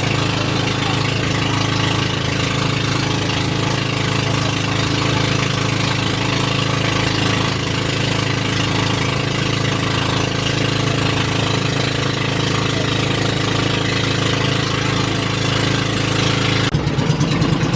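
An engine running steadily at a constant speed, loud and close; about a second before the end the sound changes abruptly.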